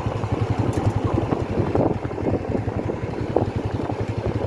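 Motorcycle engine running steadily while riding, a rapid low pulsing, with road and wind noise on the microphone.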